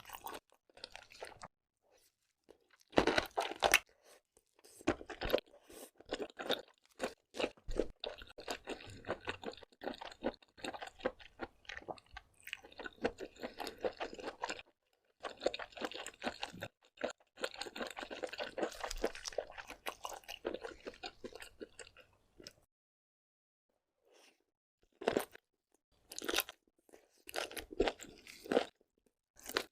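Close-miked chewing and crunching of seafood, in runs of crackly bites with a few louder crunches and two short pauses, one near the start and one near the end.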